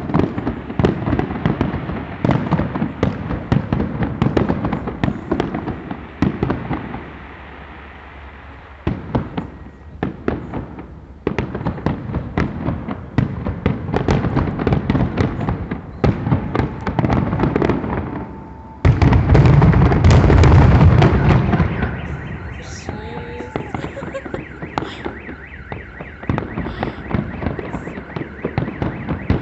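Fireworks display: a continuous barrage of bangs and crackling. It eases briefly about ten seconds in, then turns abruptly louder and denser about two-thirds of the way through, in the finale of the show.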